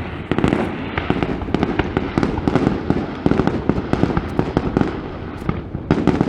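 Fireworks display going off: a dense, continuous barrage of bangs and crackling with deep booms, easing briefly just before the end and then picking up again.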